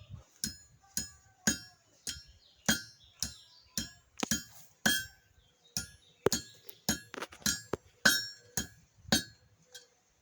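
Blacksmith's hand hammer striking hot steel on an anvil, about two blows a second, each with a short metallic ring. The blows bend the end of a scrolled bar over into a loop. The rhythm breaks up briefly about seven seconds in.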